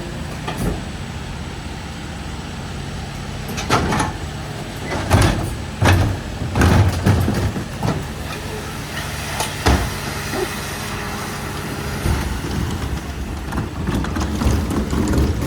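Garbage truck's diesel engine running steadily, with a series of loud metal bangs and clanks about four to ten seconds in, typical of bins being handled and tipped at the truck.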